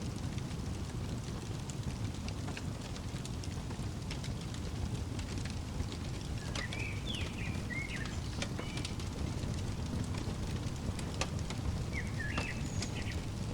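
Fireplace crackling: a steady low rumble of burning with scattered sharp pops. A songbird chirps a few quick phrases about halfway through and again near the end.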